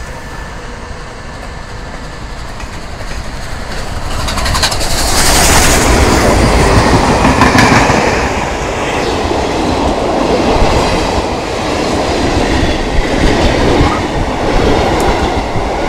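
A steam-hauled passenger train runs through close by at speed. The rumble builds for a few seconds and is loudest as the head of the train passes, with a brief hiss. The coaches then roll past with their wheels clattering over the rails.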